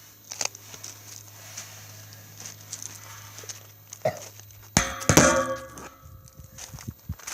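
Scattered footsteps and knocks of someone walking while holding the camera, with one loud clank and a brief pitched creak about five seconds in.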